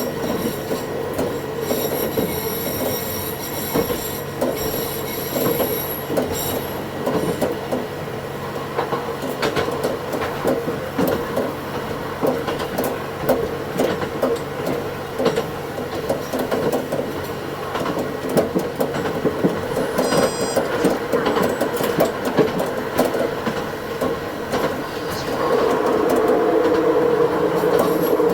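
Diesel railcar running along the line, heard from the cab and sped up to double speed: a steady running hum with many quick clicks of the wheels over the rail, and thin high wheel squeals now and then. The running sound grows louder about 25 seconds in.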